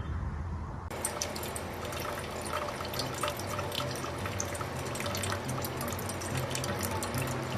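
Running water with many small drips and splashes, starting about a second in.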